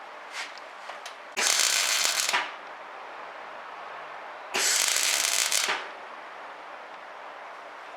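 Semi-automatic MIG welder arcing in two short crackling bursts, each about a second long, as a steel patch plate is welded in.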